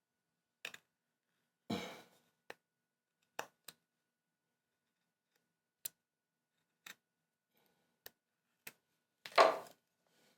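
Hand wood-carving with carving tools on wood: scattered sharp taps and clicks, with two longer knocks, one about two seconds in and a louder one near the end.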